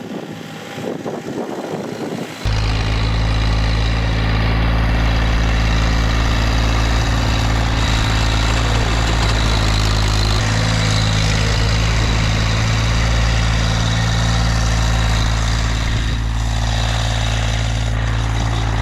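Massey Ferguson sub-compact tractor's diesel engine running steadily with a deep, even drone, cutting in abruptly about two and a half seconds in after a quieter start.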